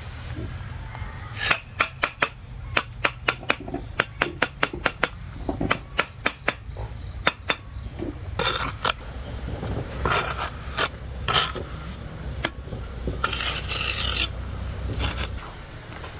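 Hand-tool work: a run of about twenty sharp, irregular taps or knocks over some six seconds, then several longer rasping scrapes, over a steady low hum.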